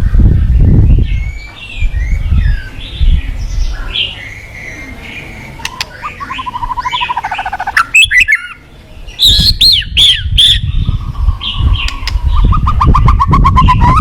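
White-rumped shama singing a varied song of whistles, trills and sharp upward-sweeping notes, over a low rumbling noise that comes and goes.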